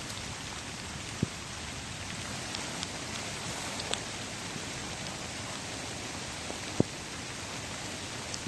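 A steady, even hiss with a few sharp taps, the loudest about seven seconds in.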